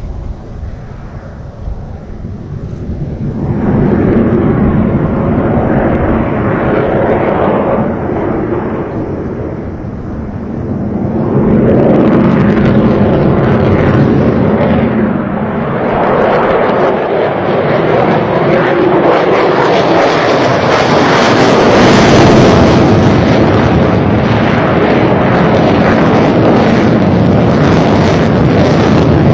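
Jet engines of a Sukhoi Su-57 fighter running loud. The noise swells about three seconds in, eases briefly around ten seconds, then builds again and stays loud.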